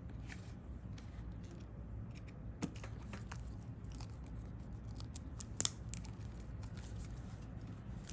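Scattered light clicks and scrapes of small repair tools and parts being handled on an opened smartphone, with a sharper click about two and a half seconds in and the loudest a little past halfway, over a steady low hum.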